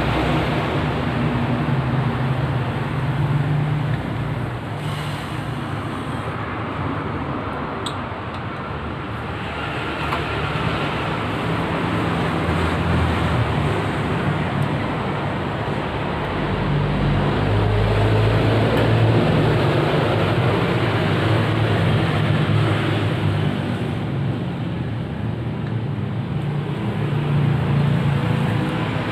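Steady rumble of motor traffic with engine hum, swelling for a few seconds past the middle.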